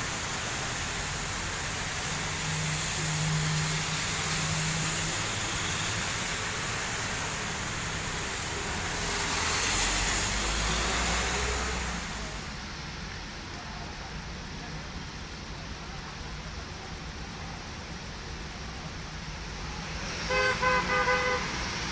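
Heavy rain pouring down on a flooded city street, a steady hiss of rain and water with passing traffic, the hiss dropping somewhat about halfway through. Near the end a vehicle horn toots several short times.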